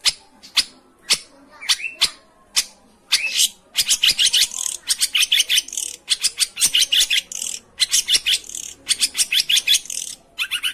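Long-tailed shrike song: single sharp high notes about every half second, breaking about four seconds in into fast runs of harsh chattering notes, with a short pause near the end.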